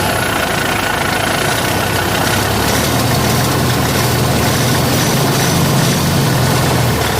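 Caterpillar C15 inline-six diesel truck engine idling steadily.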